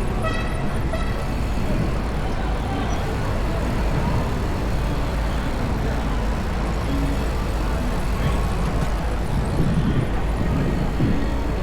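Steady city street noise heard from a moving bicycle: a constant low rumble of traffic and air rushing past, with a brief pitched tone in the first second.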